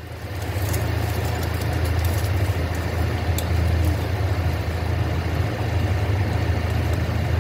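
Car engine running steadily, a low hum that gets a little louder about half a second in.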